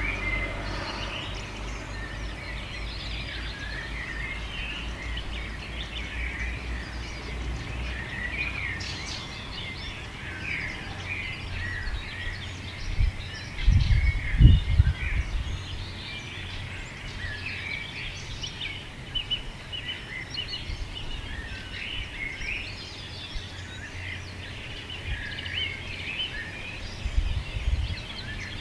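Many small birds chirping and singing together over a steady low rumble. About halfway through comes a brief cluster of loud low thumps, with a few softer ones near the end.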